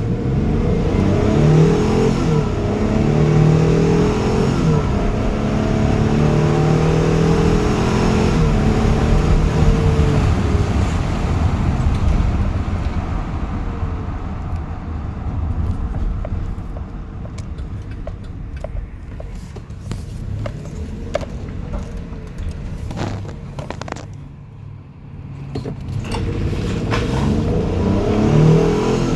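Chevy Express cargo van's engine pulling hard under acceleration, its pitch climbing and dropping back at each smooth automatic upshift. After about twelve seconds the engine settles quieter under road noise with scattered clicks and rattles, then climbs in pitch again near the end.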